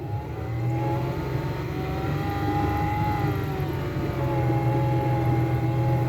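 Small outboard motor on a mini boat running just after starting, its pitch rising a little and easing back before settling into a steady run.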